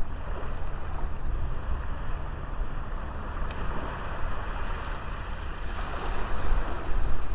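Sea waves washing onto a small beach, a continuous surf that swells louder near the end, with wind rumbling on the microphone.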